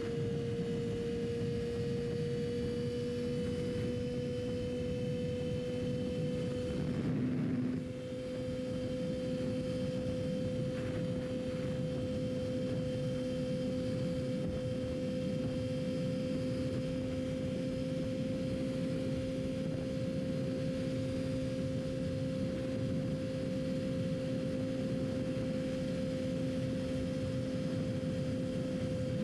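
Yamaha R6's inline-four engine running at steady revs while riding, a constant engine note that rises slightly over the first few seconds, with wind rush underneath. About seven seconds in the note briefly breaks and the level dips, then it carries on at the same pitch.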